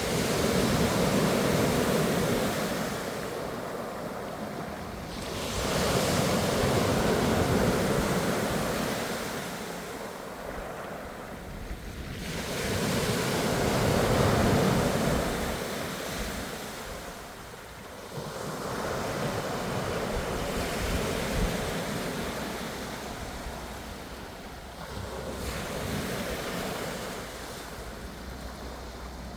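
Ocean waves breaking and washing in, swelling and falling back in slow surges about every six or seven seconds.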